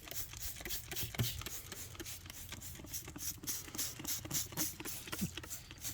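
Degreaser being sprayed onto a tractor engine in a run of short, quickly repeated hissing squirts.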